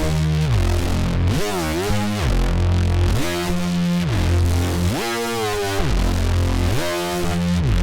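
Arturia MiniFreak synthesizer playing a preset: a steady bass note under a gritty, overtone-rich tone that glides down and back up in pitch over and over, about once every one and a half to two seconds.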